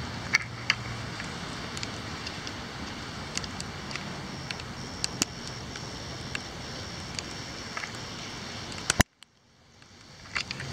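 Steady hiss of a night rainstorm with a faint hum and many scattered sharp ticks; no thunder. About nine seconds in, the sound cuts off with a click to near silence and then slowly fades back in.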